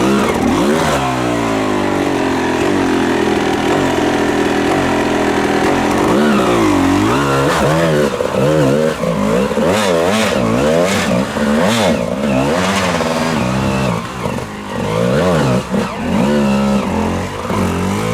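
Enduro dirt-bike engines revving hard, the pitch rising and falling over and over, with two engines overlapping from about six seconds in.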